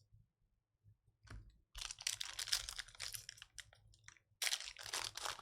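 Trading cards and pack wrappers being handled: rapid crinkling, rustling and clicking that starts a little over a second in, pauses briefly around four seconds, then resumes.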